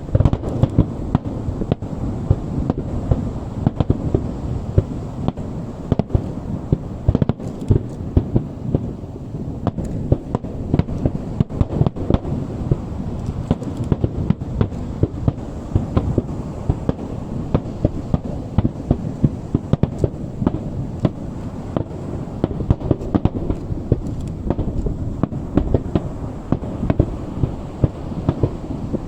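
Fireworks display: a dense, continuous barrage of sharp bangs and crackles over a deep, rumbling bed of overlapping booms.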